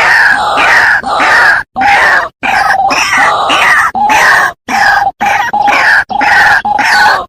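White-breasted waterhen calling: a rapid run of harsh, repeated 'kru-ak' notes, several a second, played as a bird-lure recording. The calling breaks off abruptly several times, in complete silences where the loop is spliced.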